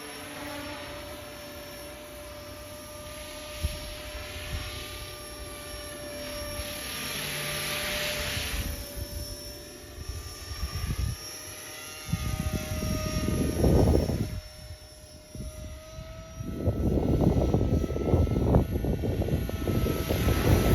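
Electric T-Rex 450 RC helicopter in its EC145 scale body flying, its motor and rotors giving a steady high whine that dips and rises slightly in pitch. Wind buffets the microphone in loud rumbling gusts about two-thirds of the way through and again from shortly after that onward.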